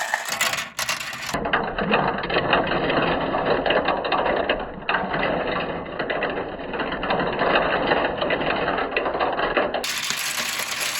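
Many marbles rolling and clattering down a plastic kumikumi slope marble-run track: a dense, continuous rattle of small clicks that changes character abruptly about a second in, near five seconds and near the end.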